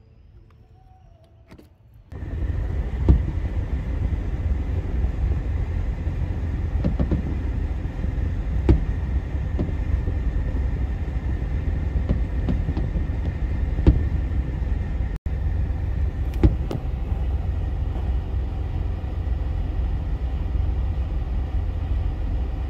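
After a quiet moment, a loud, steady low rumble heard from inside a car begins, with sharp bangs of fireworks going off every few seconds, about four of them loud.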